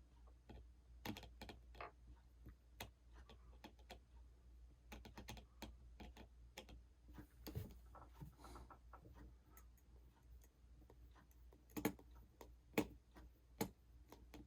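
Faint, irregular clicks and taps of a small screwdriver working tiny screws out of an iPhone 6's internals, with a few sharper clicks near the end.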